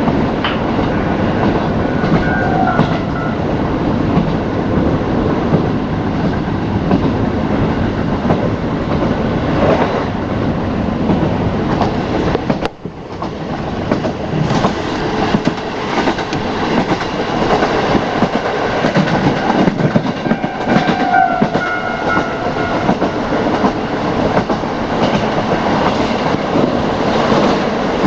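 KiHa 40 diesel railcar running on the line, heard from on board: the diesel engine and the rumble of the carriage, with wheels clicking over rail joints. The sound briefly drops out about halfway through.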